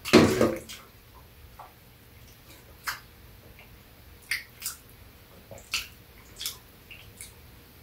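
Close-up eating sounds of people chewing soft steamed buns: short wet smacks and clicks of lips and mouths, scattered every second or so. A louder mouth sound comes right at the start.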